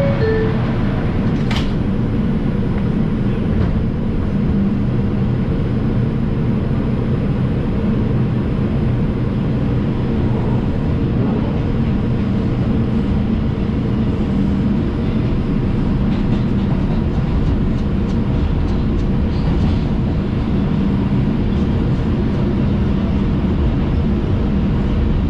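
Inside an R142 subway car running between stations: a steady rumble of wheels on rail with a low, even hum underneath. A single sharp clank comes about a second and a half in, and a run of light clicks follows later on.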